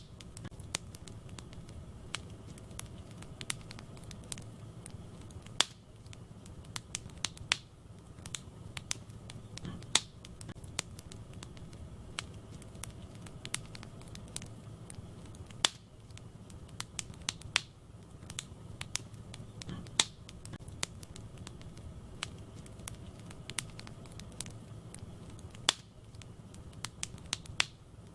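Wood fire burning in a fireplace: irregular crackling, with small snaps several times a second and louder pops every few seconds, over a steady low rumble.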